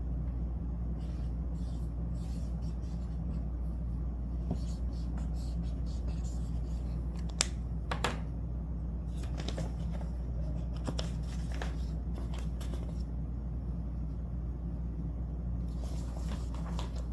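Scattered small clicks and scraping handling noises, with one sharper click about seven seconds in and another soon after, over a steady low hum.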